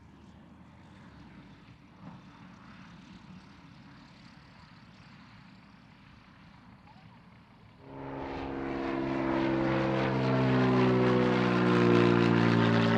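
Faint outdoor background for about eight seconds, then a light propeller aircraft's piston engine comes in suddenly and runs loud, its pitch sliding slowly lower.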